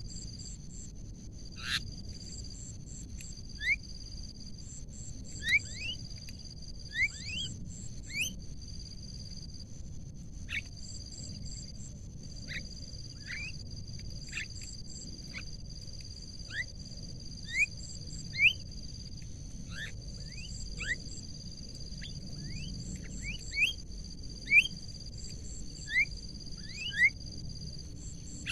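Short rising bird chirps, loud and repeated every second or so, over a steady high-pitched pulsing insect trill.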